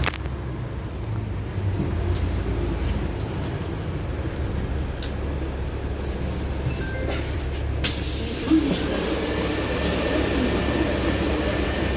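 Inside a LiAZ-6213.65 articulated city bus: a low engine and drivetrain rumble with a few light clicks as it pulls in at a stop. About eight seconds in, a sudden sharp hiss of compressed air, typical of the pneumatic doors opening, and a steady hiss carries on after it.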